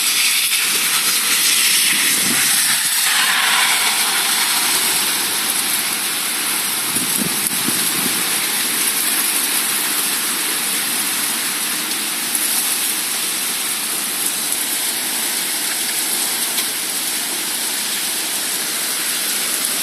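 Heavy rain pouring down in a sudden downpour, a loud steady hiss.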